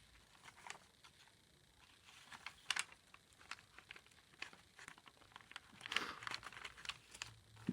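Faint paper rustling and light clicks as card stock journal pages, tags and folders are handled and turned.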